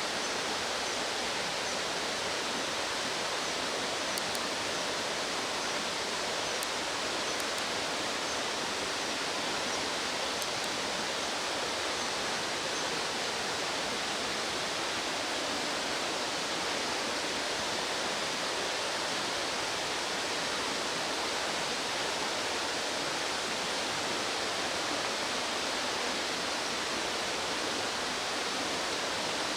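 Steady rushing of a fast-flowing stream, an even noise with no change in level.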